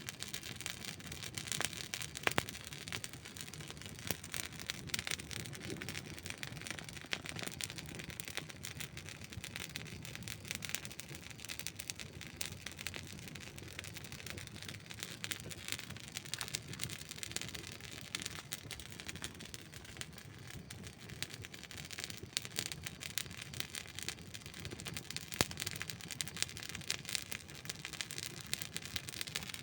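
Campfire crackling: a dense, steady run of small snaps and pops over a soft hiss of burning wood, with a few sharper pops standing out.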